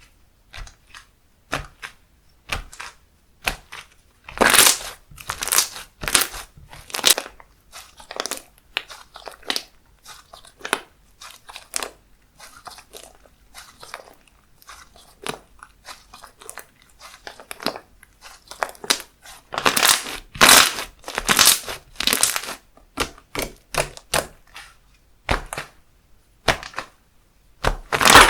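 Handmade slime being squished and pressed by hand, giving an irregular run of sharp sticky clicks and pops. There are louder, longer spells about four to seven seconds in, around twenty to twenty-two seconds in, and again at the end.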